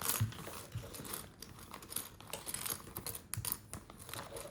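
Small plastic Lego pieces clicking and rattling as they are picked through and fitted together, a string of light, irregular clicks.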